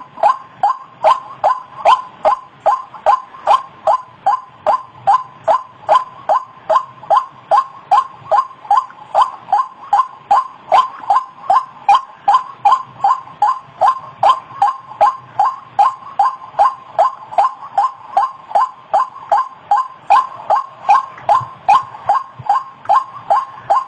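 White-breasted waterhen (ruak-ruak) calling over and over, a steady run of short, evenly spaced call notes at about two to three a second.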